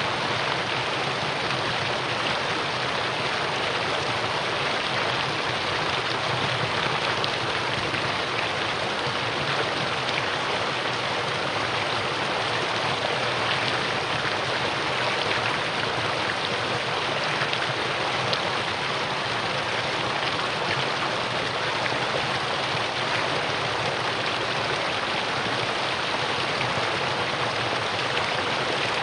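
Mountain stream rushing steadily over rocks in a valley, a constant full wash of water noise with no let-up.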